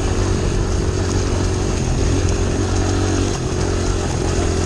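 Honda CRF100 dirt bike's single-cylinder four-stroke engine running steadily under a rider, with a brief dip about three and a half seconds in.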